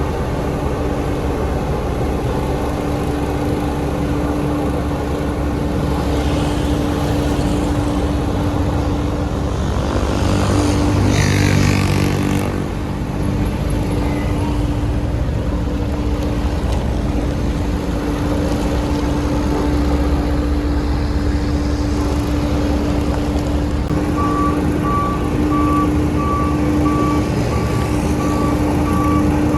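Heavy diesel construction machinery running steadily, with a louder surge and hiss about ten seconds in. Near the end a reversing alarm starts beeping at an even pace.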